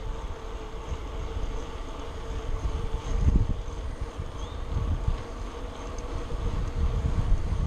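Wind buffeting the microphone over the uneven low rumble of a moving bicycle, with a faint steady hum underneath.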